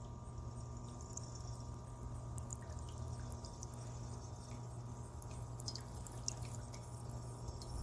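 Small solar-powered bird bath fountain running: water droplets dripping and pattering into the basin as many small scattered ticks, over a steady low hum.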